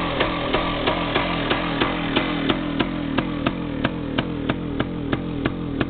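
DT360A engine idling roughly on choke, a sharp knock coming at an even beat about three times a second over the running engine.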